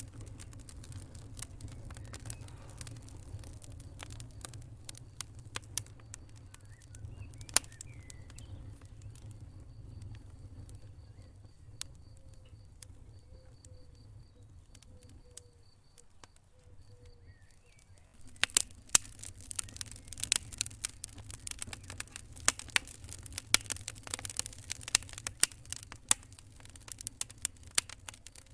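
Wood fire burning in a fireplace: a low steady rumble of flames with scattered pops, the crackling turning much denser and busier about two-thirds of the way through.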